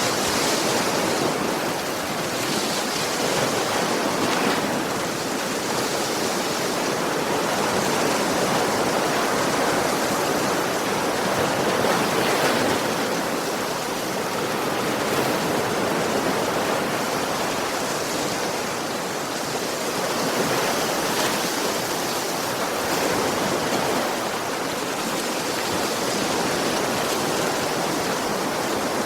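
Ocean waves breaking and washing on a beach: a continuous rushing surf that swells and eases every few seconds.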